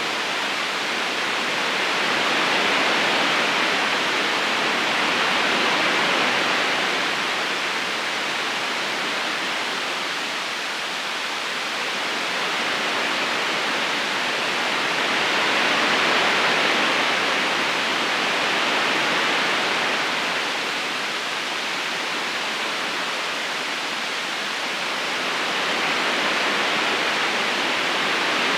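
River current flowing: a steady watery rush that gently swells and eases every few seconds.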